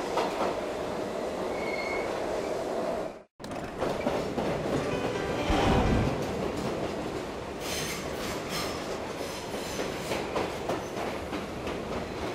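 A train running on track: a steady rolling noise, a heavier rumble about six seconds in, then a run of sharp clicks. The sound cuts out completely for a moment about three seconds in.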